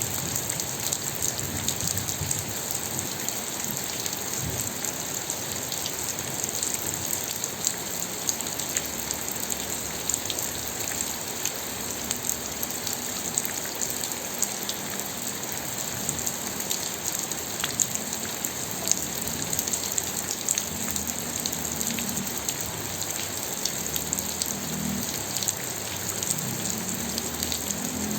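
Steady rain falling, an even hiss with many individual drops pattering through it.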